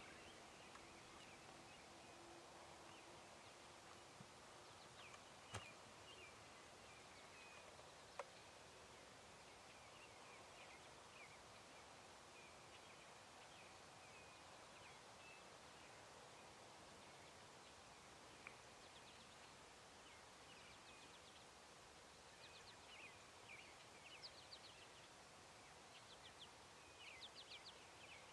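Quiet woodland ambience with faint, scattered songbird chirps that grow busier near the end, and two sharp clicks in the first few seconds.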